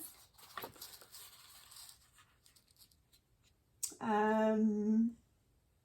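Faint rustling and light handling of sheets of paper, followed about four seconds in by a woman's voice held on one steady pitch for about a second, a drawn-out wordless filler sound.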